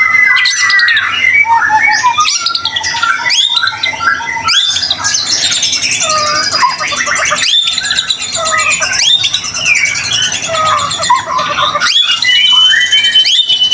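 White-rumped shama (murai batu) singing without a break: a fast run of varied whistles, trills and harsh notes, with long held whistles about a second in and near the end.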